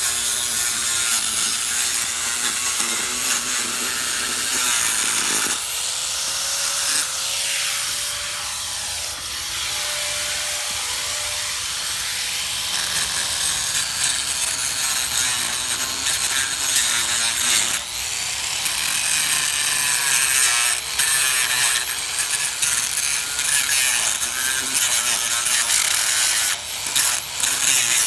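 Angle grinder with a concrete grinding blade cutting along a driveway crack to widen it for filler: a loud, steady grinding hiss over the motor's whine, the motor pitch dipping and recovering several times as the blade is pressed into the concrete.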